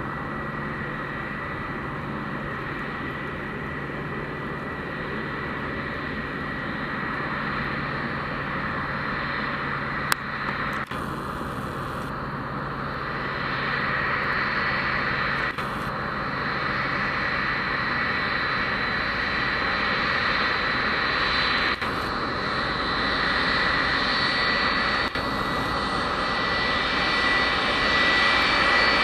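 Boeing 757-200F freighter's jet engines running at low power, a steady rushing noise with a high whine, growing louder toward the end. A single sharp click about ten seconds in.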